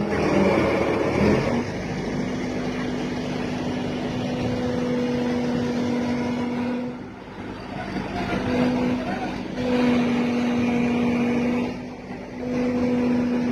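Crane engine running under load, a steady mechanical hum at one pitch that holds for several seconds, drops away about seven seconds in, and returns in shorter stretches.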